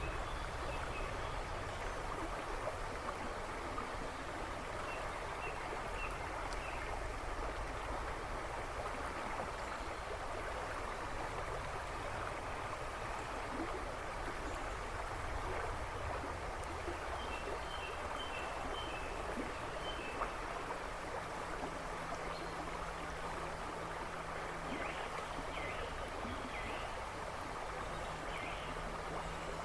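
River babbling and rushing steadily over stones, with a few small birds chirping faintly in short bursts in the background.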